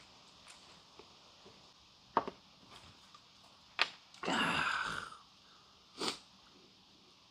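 Eating noises: a few sharp clicks, then a breathy sound lasting about a second, and one more short burst near the end.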